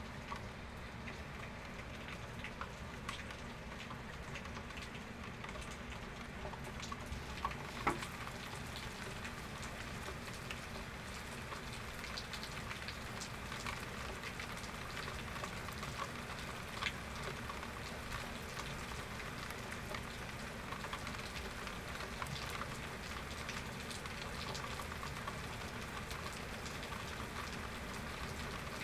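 Steady rain falling on surfaces, with many distinct drops pattering, and a sharper drop or drip hit about eight seconds in.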